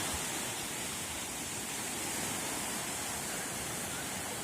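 Sea surf washing ashore: a steady, even hiss of waves.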